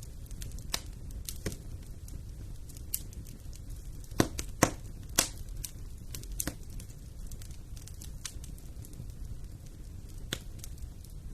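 Wood fire burning in a fireplace: a steady low rumble of flame with irregular sharp crackles and pops, a quick cluster of louder pops about four to five seconds in.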